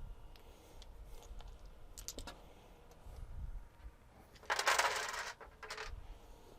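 Light clicks and taps of small parts being handled on a workbench, with one short scraping or rustling noise about four and a half seconds in.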